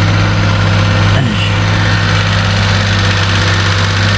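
Suzuki Carry DC51T kei truck's engine idling with a steady low hum; the truck has an unstable idle, which the owner puts down to the idle-speed (slow) adjustment probably having been turned up.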